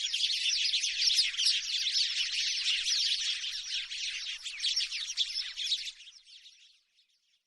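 House sparrows chirping in rapid, overlapping chirps that fade out about six seconds in.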